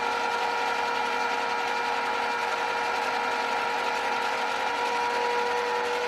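Metal lathe running steadily with an even whine during a fine finishing cut.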